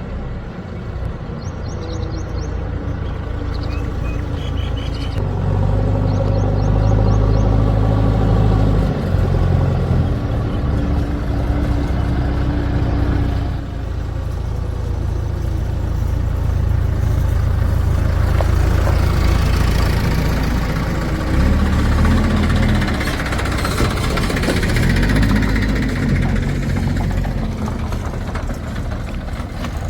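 Diesel engines of a backhoe loader and tractors working, with engine speed rising and falling as the machine loads, and a brief dip about halfway through.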